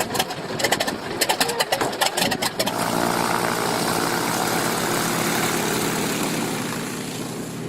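Rapid irregular clattering for the first few seconds, then an engine running steadily at idle, holding one pitch.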